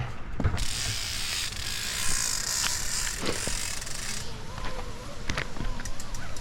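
An arborist's climbing rope zips through his descent gear as he lowers himself down the tree. It makes a steady rasping hiss from about half a second in until about four seconds in, with a few sharp clicks.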